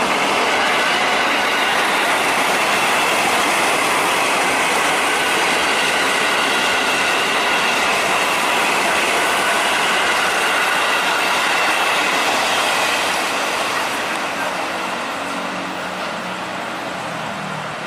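Ex-Tokyo Metro 6000 series electric commuter train (KRL) passing close by: a steady loud rush of wheels on rails with high steady tones riding over it. The noise eases off after about thirteen seconds as the train draws away.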